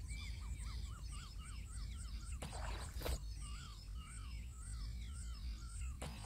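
A bird calling over and over in short, arching chirps, several a second, over a faster, very high-pitched chirping. A brief burst of noise comes about two and a half seconds in.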